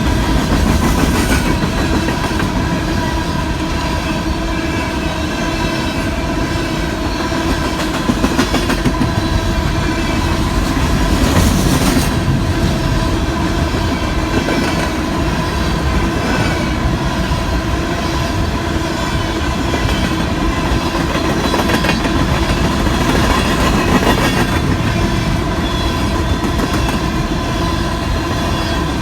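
Union Pacific coal train rolling past: the steady rumble of its coal cars, with wheels clicking over rail joints and a steady ringing squeal from the wheels.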